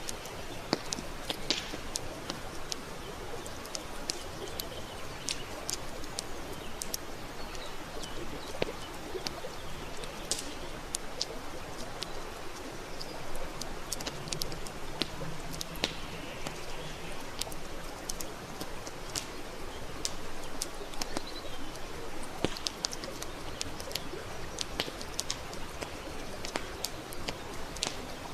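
Wood campfire burning steadily, with frequent irregular sharp crackles and pops over a soft continuous hiss.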